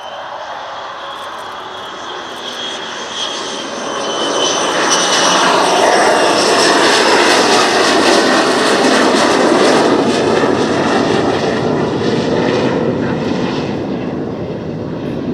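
Jet engine of a Lockheed U-2 (its single F118 turbofan) passing, with a high whine that drops a little in pitch early on, under a roar that builds to its loudest about six to ten seconds in and then slowly fades.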